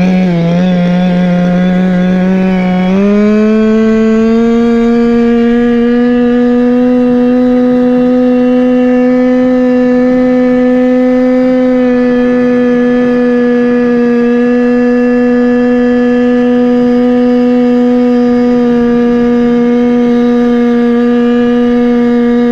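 Go-Ped scooter's Chung Yang CY26RC 26cc single-cylinder two-stroke engine running at high revs under way. For the first three seconds the revs dip and waver, then climb a little and hold steady.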